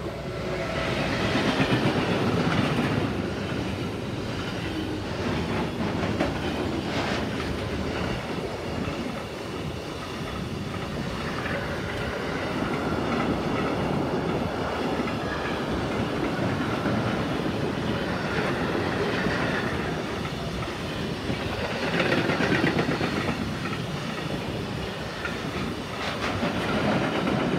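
Bombardier TRAXX class 186 electric locomotive passing close by, loudest about two seconds in, followed by a long container freight train of flat wagons rolling past on the rails with a continuous rumble and clatter of wheels.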